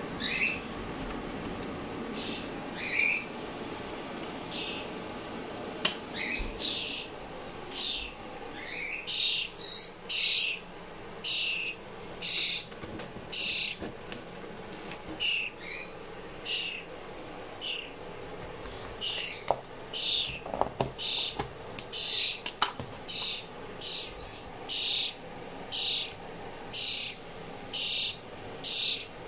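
Fledgling songbird giving repeated short, high begging calls, spaced about a second apart at first and coming faster and louder in the second half as it waits to be hand-fed.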